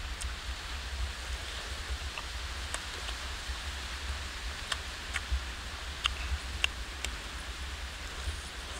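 Close-up eating sounds of a person chewing sauce-glazed pork: scattered short wet mouth clicks and lip-smacks, heard over a steady low rumble and faint hiss.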